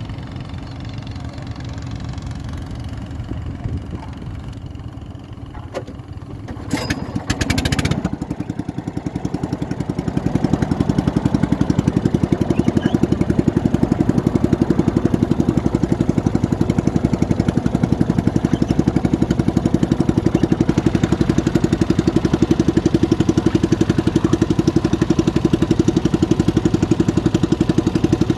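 An engine runs at low speed, then picks up about ten seconds in and holds a steady, louder, evenly pulsing run. A few sharp knocks come just before it picks up.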